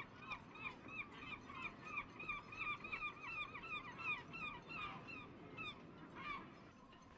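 A bird calling in a rapid series of short, honking notes, about three a second, for some five seconds, then one more call after a short pause.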